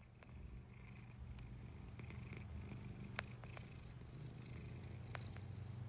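Cat purring steadily, a low continuous rumble, with a few faint clicks.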